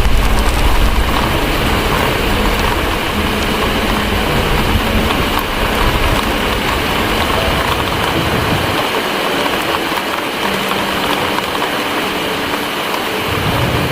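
Heavy rain pouring steadily against windows, with a deep rumble of distant thunder under it. The rumble fades over the first couple of seconds and swells again near the end.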